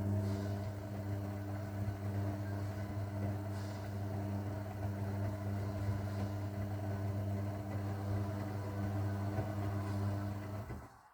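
Zanussi washing machine giving off a steady, even electric hum at one unchanging pitch, cutting off abruptly near the end.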